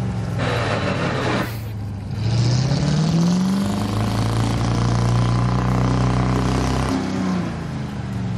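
Off-road 4x4's engine revving: the revs climb over about a second, hold high and steady for about three seconds, then drop back near the end. A short hissing burst of noise comes about half a second in.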